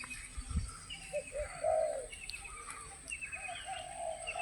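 Wild spotted dove (terkukur) cooing in its high-pitched 'mersik' voice, several short phrases, with a longer coo near the end. Small birds chirp in quick runs, with a faint steady high insect-like whine throughout.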